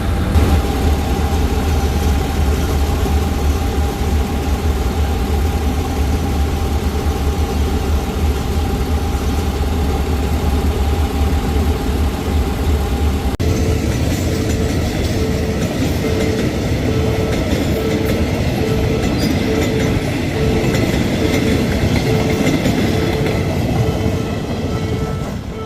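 Diesel train engine idling with a steady low hum, then, after an abrupt cut about halfway through, a train running with a loud rushing noise and a warning tone that pulses about twice a second.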